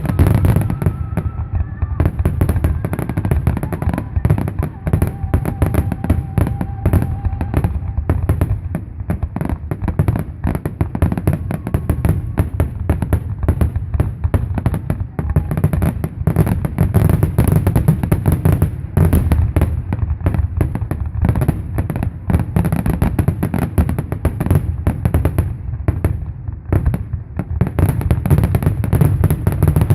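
Fireworks display going off in a dense, continuous barrage of bangs and crackles, with a heavy low rumble under them.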